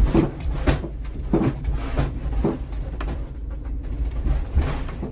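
Converted bus jolting over a very rough forest road: a steady low engine and road rumble with irregular clunks and rattles from the body as it bounces.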